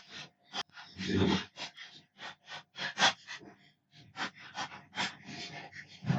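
Hands working on a PlayStation 4's plastic case: a quick, irregular run of short scrapes, rubs and clicks, as when scrubbing or handling the parts, with a longer, louder rustle about a second in.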